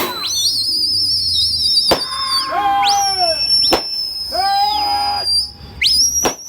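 Shrill whistles, each gliding up and then held with a warble, overlapping with short falling calls, with a few sharp clicks between them.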